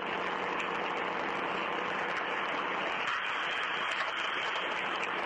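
Steady hiss of background noise on a voice recording, even and unchanging, with no one speaking.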